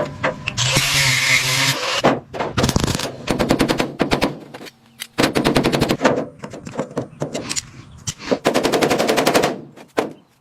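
Power tools at work on car bodywork: several bursts of rapid, rattling hammering, each lasting about a second, with short quiet gaps between them. Near the start there is a stretch of steady hiss over a motor hum.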